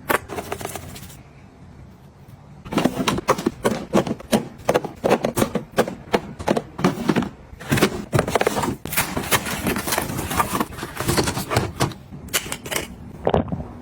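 Small hard items being handled and set down in quick succession: a dense run of clicks and taps, several a second, starting about three seconds in and stopping shortly before the end.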